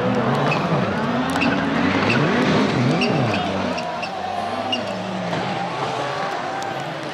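Several World Rallycross Supercars racing, their turbocharged four-cylinder engines revving up and down in overlapping sweeps through gear changes, with scattered sharp pops and crackles.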